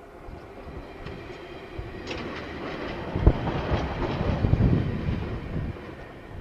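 KiwiRail train passing, picked up by a security camera's microphone: a rumble of wheels on rail with irregular knocks and clatter, swelling to its loudest around the middle and easing off near the end.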